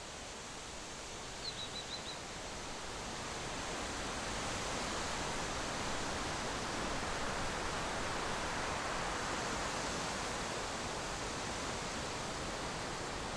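Steady rushing noise that builds up over the first few seconds and then holds. About a second and a half in, a bird gives four quick high chirps.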